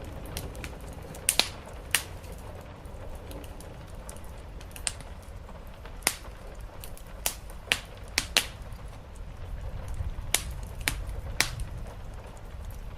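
Wood fire crackling in a fireplace: about a dozen sharp, irregular pops and snaps over a steady low rumble of the burning fire.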